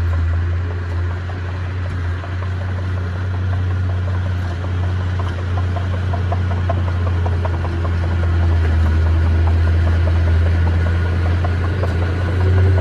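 Diesel engine of a heavy earthmoving machine running steadily with a deep hum, with a rapid clicking rattle over it.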